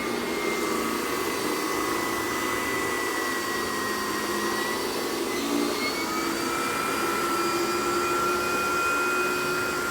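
Miele S147 canister vacuum running with a Vacuflo T21 powerhead brushing carpet: a steady rush of motor and airflow with high whines that drift slowly up and down in pitch. The head runs a little loud, which the owner puts down to a bearing probably needing service.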